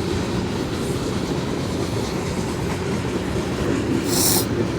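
A steady low rumble throughout, with a short high hiss about four seconds in.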